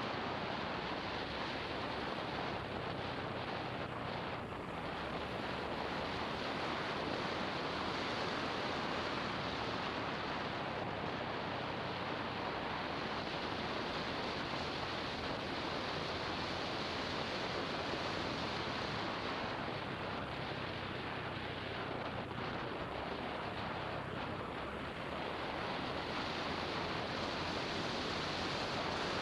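Steady wind noise buffeting the microphone on a moving motorbike, with the engine's low hum faint underneath.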